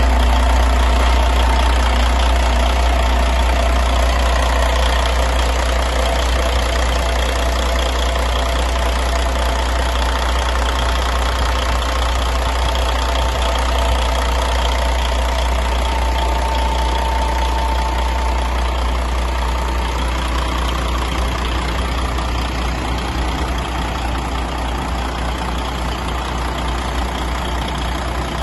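DAF truck diesel engine idling steadily, which the seller calls in ideal working condition.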